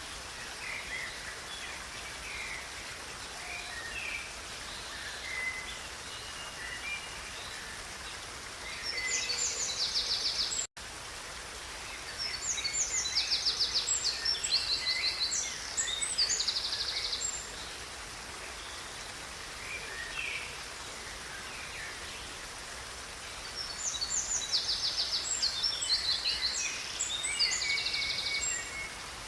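Songbirds singing over the steady rush of river water: three long bursts of fast, high trilled song, with scattered shorter chirps between them. The audio drops out for an instant about eleven seconds in.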